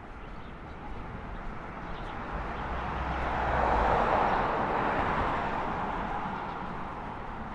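A road vehicle passing by: a rushing noise that swells to a peak about four seconds in and then fades away.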